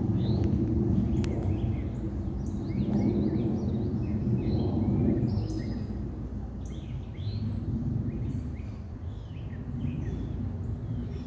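Songbirds chirping and singing in many short rising and falling phrases, over a louder low rumbling background noise that swells and fades.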